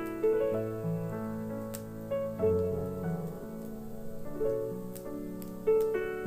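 Solo piano playing a slow, gentle ballad arrangement, chords and melody notes struck and left to ring, with faint fireplace crackles behind it.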